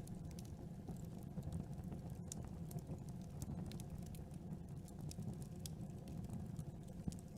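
Campfire crackling: frequent small, irregular pops and snaps over a steady low rumble of burning wood.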